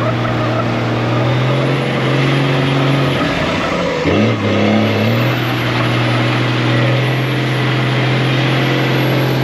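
Dodge Ram dually pickup's engine held at high revs while the truck does doughnuts on wet pavement, a steady engine note that drops and wavers about three seconds in, then climbs back to the same pitch a couple of seconds later.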